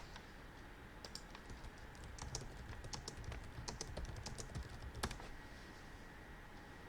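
Faint typing on a computer keyboard: a quick, irregular run of key clicks lasting about four seconds, ending with one louder click.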